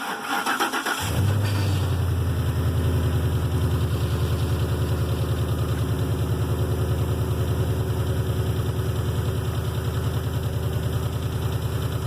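Ford 5.4-litre 3-valve Triton V8 starting after a timing chain and cam phaser lockout job: the starter cranks for about a second, the engine catches at once and settles into a steady idle. The owner notes a slight tick, which he puts down to the high-mileage valve train.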